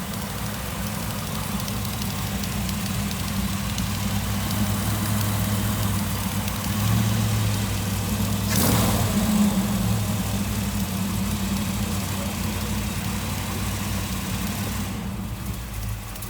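Old car's engine idling steadily, the note swelling slightly a couple of times. There is one sharp knock about halfway through.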